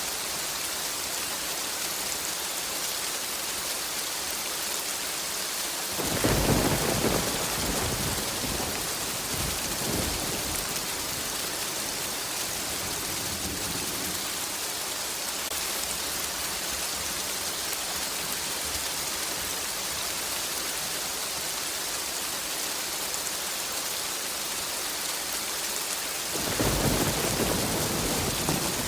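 Steady heavy rain hissing, with rolls of thunder: one rumble breaks about six seconds in and fades over several seconds, and another starts near the end.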